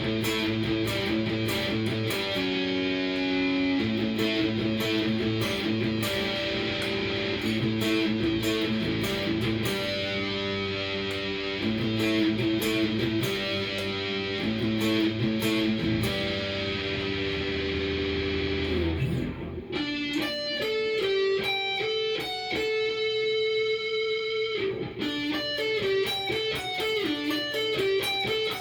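Cort S series electric guitar played through a Fender amp: dense, full chord playing for most of the time, then about two-thirds of the way in it changes to cleaner, separate single notes that ring on.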